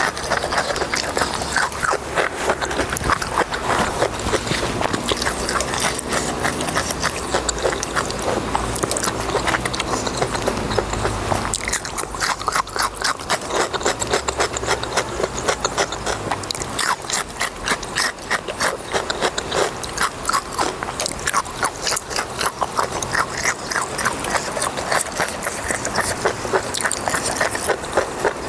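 Close-miked mukbang eating: a person chewing and crunching chewy, crunchy food with rapid wet clicks and smacks.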